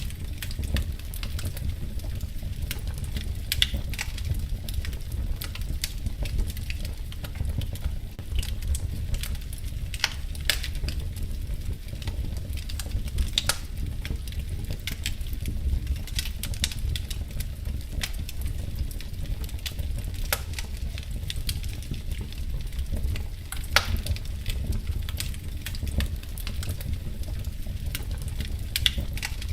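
Wood fire crackling in a fireplace: frequent small snaps and pops, a few sharper ones, over a steady low rumble of the flames.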